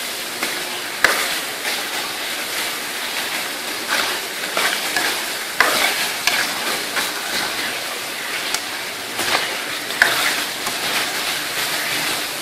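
Mutton pieces frying in oil with ground spices in a metal kadai, sizzling steadily while a metal spoon stirs and scrapes through them. The spoon knocks sharply against the pan about a second in, halfway through and near the end.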